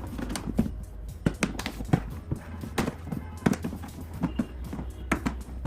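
Irregular clicks and knocks, several a second, from mower parts being handled and fitted together during assembly, over a steady low hum.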